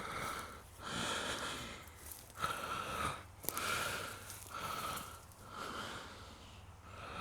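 A man breathing heavily close to the microphone while walking: a run of noisy in-and-out breaths, roughly one a second.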